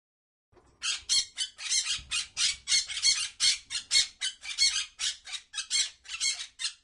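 A bird's harsh squawking calls, repeated rapidly about three times a second, starting about half a second in.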